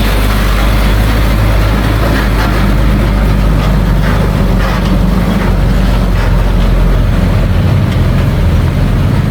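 Heavy diesel engine of earthmoving equipment running steadily.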